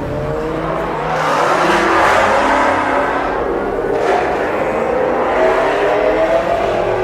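Car engine revving, its pitch climbing and falling several times, with a louder surge of exhaust noise about a second in.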